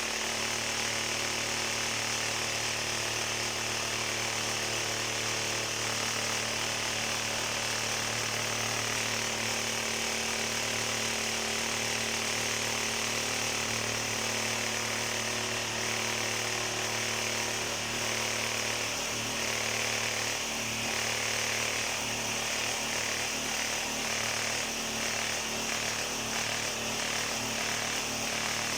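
A power tool's motor running steadily. A faint regular ticking, about two a second, joins it about two-thirds of the way through.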